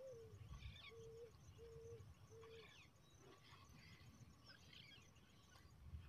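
Faint wild bird calls: a run of five short, even, low hooting notes in the first two and a half seconds, with scattered thin high chirps throughout.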